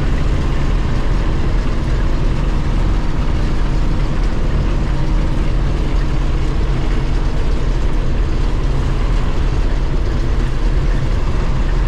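Combine harvester running steadily while harvesting wheat: a loud, even drone of engine and machinery.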